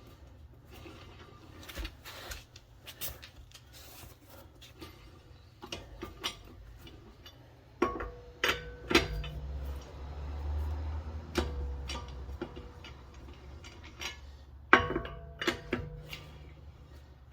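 Scattered metallic clinks and knocks, with a low hum for a couple of seconds near the middle.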